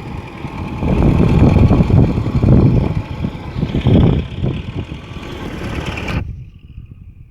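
Heavy earthmoving machine's engine running and surging under load, a loud low rumble that cuts off abruptly about six seconds in.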